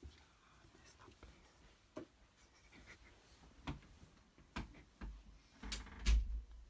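Scattered small clicks, taps and rustles of things being handled in a small room, with a louder run of knocks and a low bump about six seconds in.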